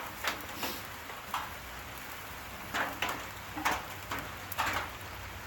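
Steady rain falling, with irregular sharp pops and crackles from a campfire that has flared up under steak cooking on a grill rack.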